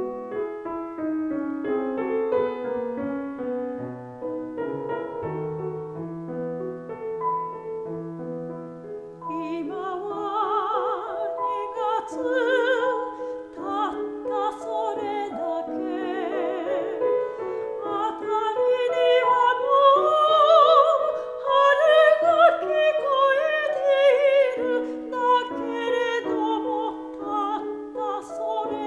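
Solo piano introduction to a Japanese art song, then a classically trained soprano enters about ten seconds in, singing with wide vibrato over the piano accompaniment.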